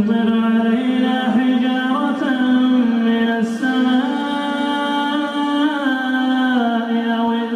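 A male reciter chanting the Quran in the melodic tajweed style, holding long drawn-out notes with small ornamental turns in pitch.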